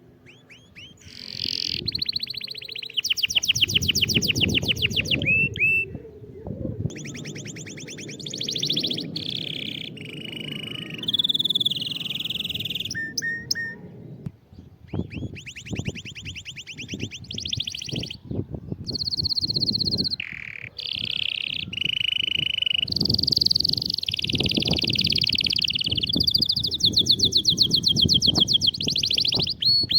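Canary singing a long, loud song of fast rolling trills and held whistled notes, phrase after phrase with short breaks. A low background noise runs under it, heaviest in the first half.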